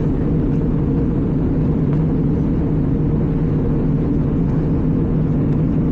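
Steady cabin noise inside an Airbus A320 in flight: an even, low roar of the engines and airflow, with no change in level.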